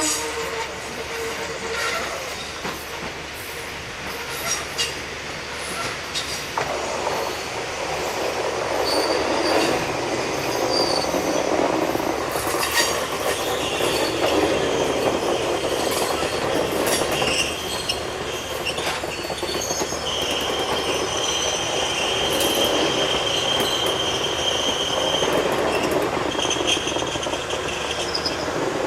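Izuhakone Railway 1100 series electric train running on the rails, with repeated wheel clicks over the joints and a steady rumble that grows louder about eight seconds in. About twenty seconds in, the wheels give a steady high-pitched squeal that lasts several seconds.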